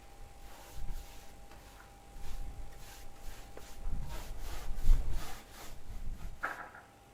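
Paintbrush strokes rubbing stain onto wooden wall boards, a run of repeated short brushing sounds.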